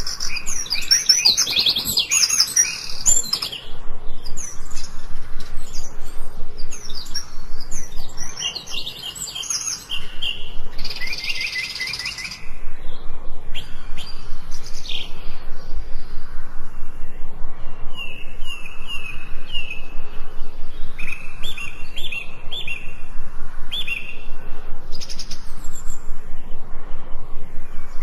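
Several forest songbirds singing and chirping, with quick high trills and short sliding notes overlapping. In the second half one bird repeats short runs of evenly spaced notes.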